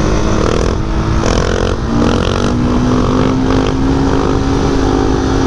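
Dirt bike engine running and revving, its pitch climbing and dropping in short pulls about once a second.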